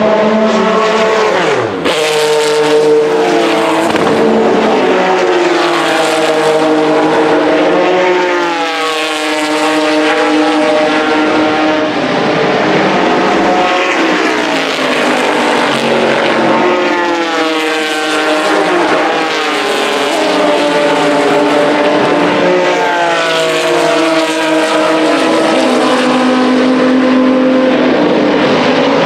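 Vintage race car engines at full throttle on track, several cars in turn, their pitch repeatedly climbing and then dropping as they shift up through the gears. About a second and a half in, one car's pitch falls away as it passes.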